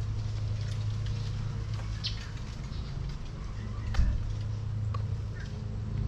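Scattered short bird chirps over a steady low hum, with one sharp click about four seconds in.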